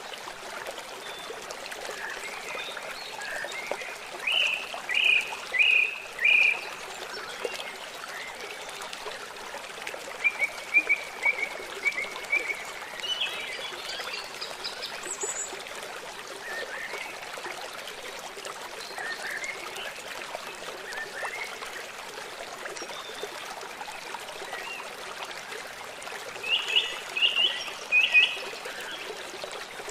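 Birds chirping in short runs of repeated notes over the steady trickle of running water.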